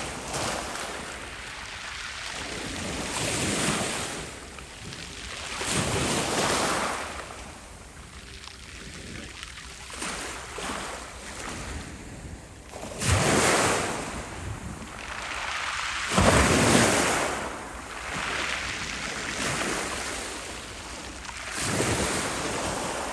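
Black Sea waves breaking on the shore, swelling and falling away every few seconds, with wind buffeting the microphone.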